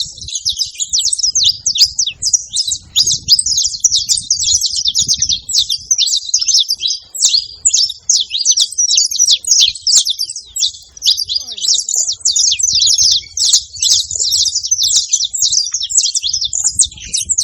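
Saffron finch singing: an unbroken stream of quick, high chirps and trills.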